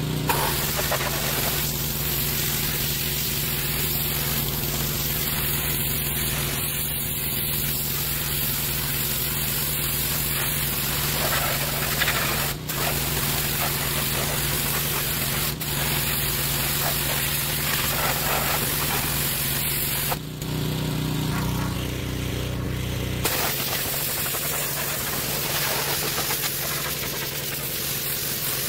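Gas-engine pressure washer running steadily, its water jet hissing against a truck's body; the spray lets up for a few seconds about two-thirds of the way through while the engine keeps running.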